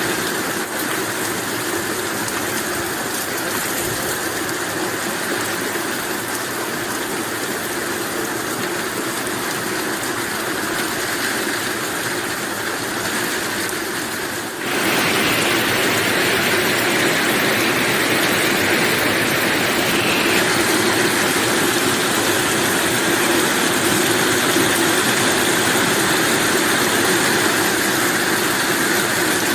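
Steady heavy rain, an even hiss. About halfway through it abruptly steps up a little louder.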